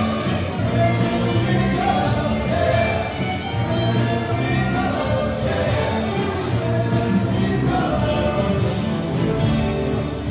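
A band playing a song with singing and a steady drum beat.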